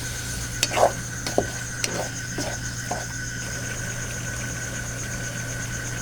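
A spoon stirring chicken through curry masala in a cooking pot, with several short scrapes and knocks against the pot in the first three seconds. A thin steady high tone and a low hum run underneath.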